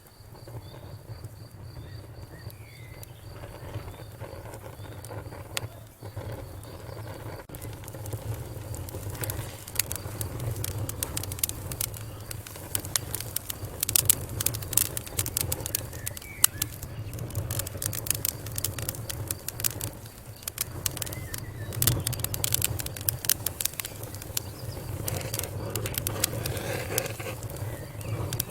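Wood fire crackling, with irregular sharp pops and snaps that come thick and fast from about a quarter of the way in.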